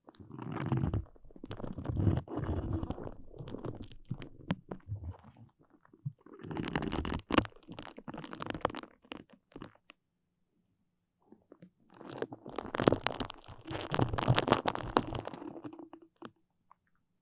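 Close-miked sticky, crackling sounds from a tacky material being handled, in three bursts of a few seconds each with silence between them.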